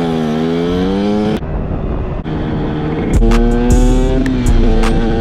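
A dirt bike engine revving, its pitch climbing, cut off abruptly about a second and a half in; from about three seconds in, a hip-hop beat with heavy bass and a ticking hi-hat starts.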